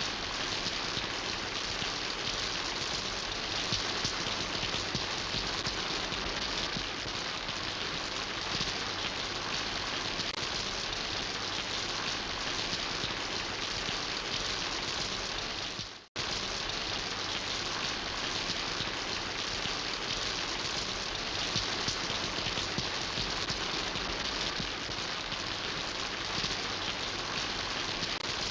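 Steady, even rain falling. It fades out briefly to silence a little past halfway and comes back at once, like a splice in the recording.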